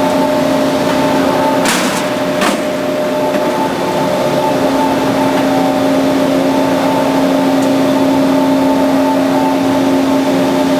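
Band saw running with a steady motor hum and blade noise, with two short sharp clicks about two seconds in.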